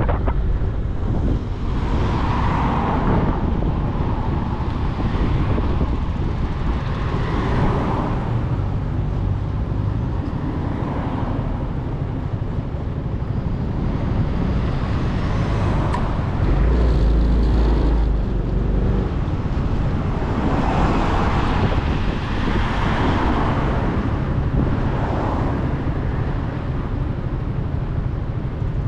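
Motorcycle riding through city traffic, its engine and road noise running steadily, with other vehicles' sound swelling and fading several times as they pass.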